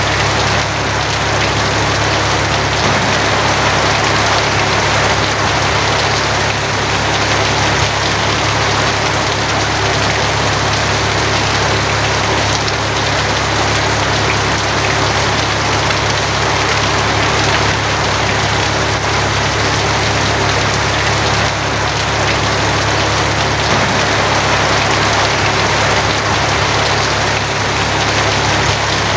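Steady heavy rain drumming on a tin roof, with an even low rumble underneath.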